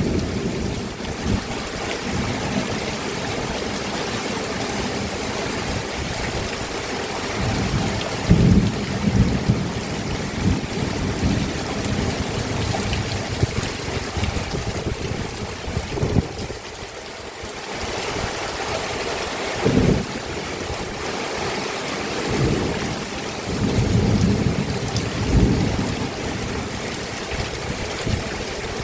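Steady rainfall, with several short low rumbles rising out of it and a brief lull about two-thirds of the way through.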